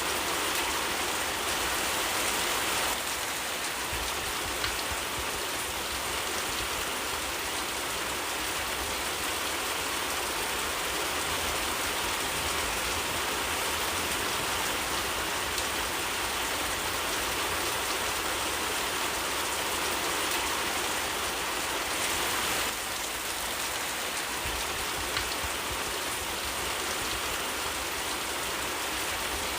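Steady rain falling in a forest, an even hiss of drops with no letup.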